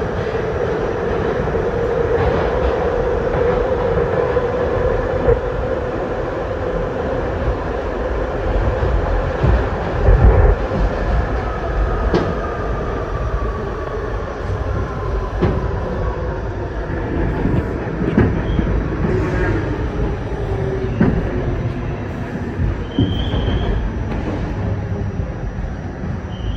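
R68 subway car running along the track, heard from on board: a steady rumble with a motor whine that slowly falls in pitch, and scattered knocks from the wheels over rail joints.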